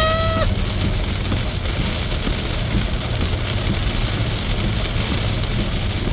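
Heavy rain drumming on a moving car, heard from inside the cabin, over a steady low rumble of tyres and road.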